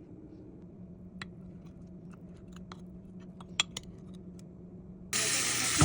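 Light clicks and taps of kitchen utensils, then, about five seconds in, food starts sizzling loudly in a hot pan.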